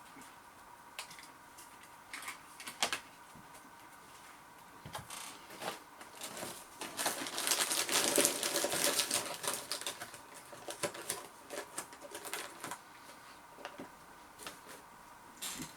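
Crisp crackers being bitten and chewed close to the microphone: irregular crunchy clicks, thickening into a denser spell of crunching about seven seconds in.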